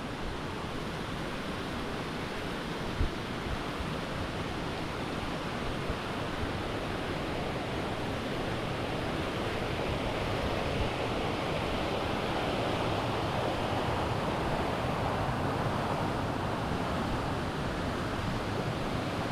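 Steady rush of the cascading water of Anna Ruby Falls, growing a little louder around the middle.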